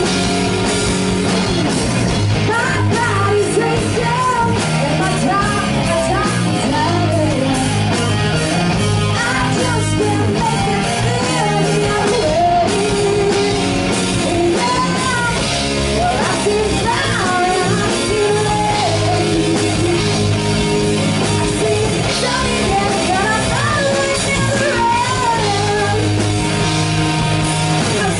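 Rock band playing a loud hard-rock song, with a winding lead melody over a steady, driving low end.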